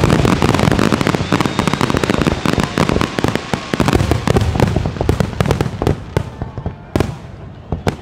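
Fireworks display: a dense volley of bangs and crackling that thins out after about five seconds into scattered single bangs.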